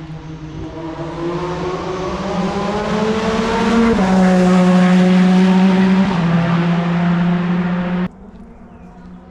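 Formula One car engine at speed on the circuit, climbing in pitch and then dropping in two steps as it shifts up. It cuts off abruptly about eight seconds in.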